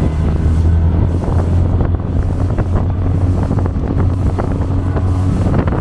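Motorboat engine running at speed, a steady low hum, with wind buffeting the microphone. Short sharp knocks come through repeatedly after about a second.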